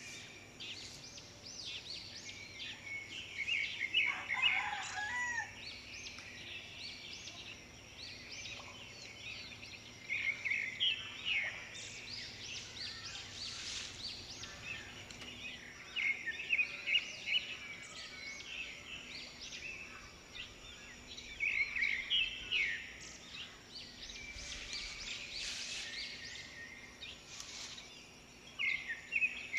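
Birds calling in bursts of short, high chirps every few seconds, with one longer call dropping lower in pitch about four seconds in.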